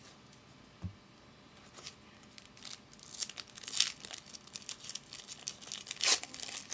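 Wrapper of a 2008 SP Authentic football card pack being torn open and crinkled, the crackling starting about three seconds in with the loudest tear near the end. A soft knock about a second in.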